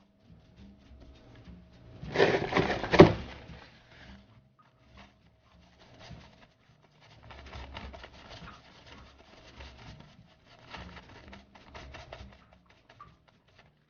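Scratching, rubbing and small clicks of a soldered circuit board being cleaned by hand, with a louder burst of scrubbing about two to three seconds in.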